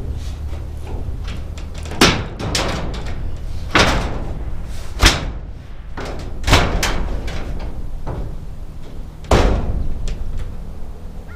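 Sheet metal banging: a handful of irregular loud bangs and smaller knocks, each ringing briefly.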